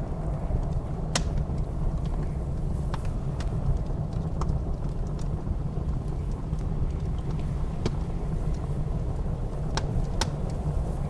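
Wood fire crackling in a fireplace, with scattered sharp pops, over a steady low rumble of blizzard wind.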